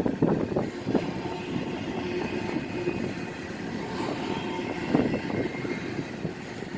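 CSX freight train rolling past, a steady rumble with irregular clacks and knocks of its wheels over the rail joints.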